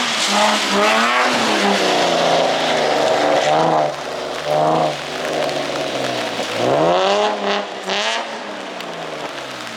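Car engine revving hard while a car drifts in circles, its pitch climbing and falling again and again. About six seconds in the revs drop low, then climb sharply once more.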